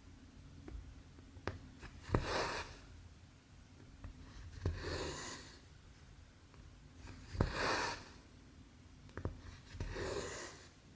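Cotton embroidery thread pulled through cross stitch fabric: four scratchy swishes, one every two and a half seconds or so, with light clicks of the needle between them.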